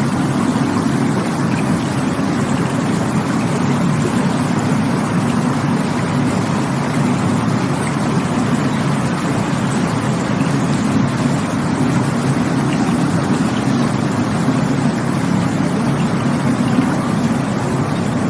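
Rushing water running steadily and unbroken, a dense full rush weighted toward the low end.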